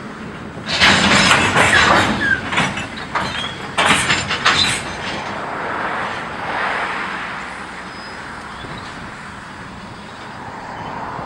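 Freight cars moving in a rail yard: a rapid, irregular run of loud metallic clanks and bangs for about four seconds, with a few brief squeals, then a softer steady rolling noise.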